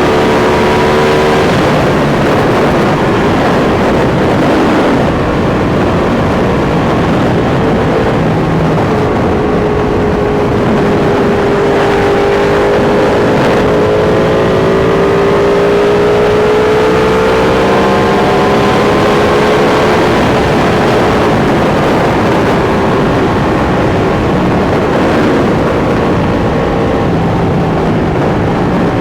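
Sport motorcycle engines running at highway speed, their pitch slowly rising and falling with the throttle, over a steady heavy rush of noise.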